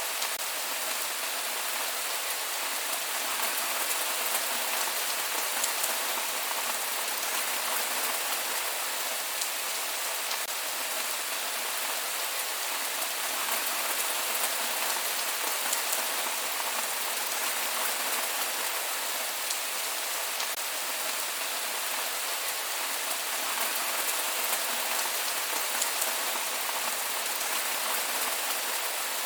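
Steady rain falling, with no thunder: an even hiss of rain with fine, scattered drop ticks.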